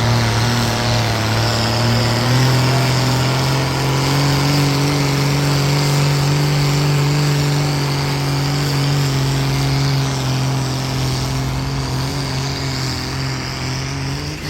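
Diesel engine of a pulling tractor running hard at high revs under load, with a high whine above it. The engine note steps up about two seconds in, sags slowly as the pull goes on, and drops away sharply at the very end.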